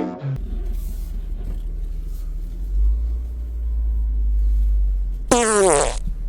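A steady low rumble, then near the end a short, loud sound with many overtones that slides down in pitch.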